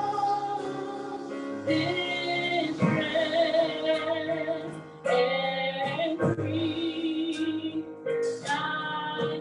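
A woman singing a slow gospel hymn over instrumental accompaniment, holding long wavering notes with short breaths between phrases.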